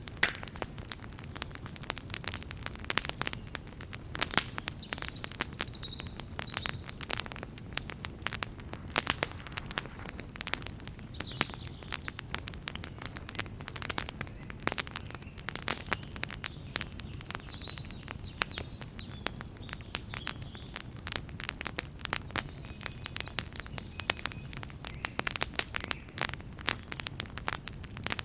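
Wood campfire crackling: a steady stream of sharp pops and snaps over the low rush of the flames.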